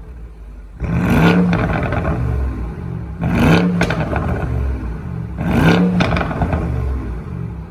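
BMW M550i's twin-turbo V8 through an AC Schnitzer exhaust in Sport Plus mode, revved hard three times from idle. Each rev climbs and falls back quickly, with a few sharp pops as the revs drop.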